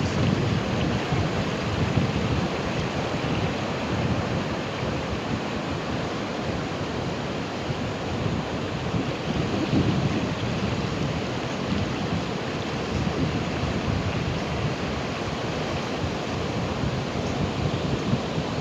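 Ocean surf, waves washing in steadily with a deep low rumble that swells about every ten seconds.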